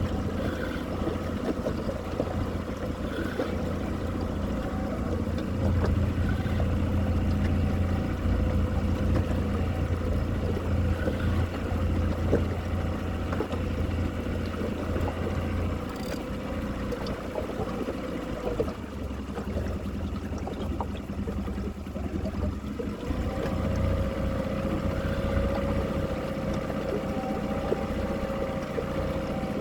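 A boat's motor running steadily at low speed, a continuous hum with a held tone and water noise. The hum thins out for a few seconds past the middle, then comes back.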